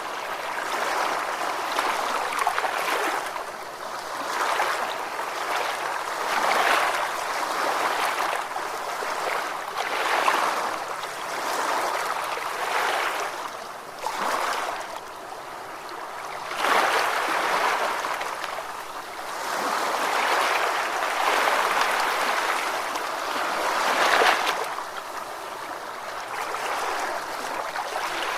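Ocean waves washing in, a steady rush of water that swells and ebbs every few seconds.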